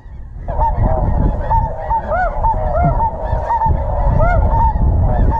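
Snow geese calling: many short, high honks overlapping in a steady chorus, with wind rumbling on the microphone.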